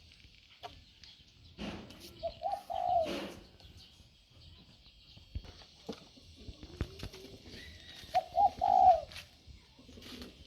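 A dove cooing twice, about six seconds apart. Each call is two short notes and then a longer, drawn-out note that falls at the end.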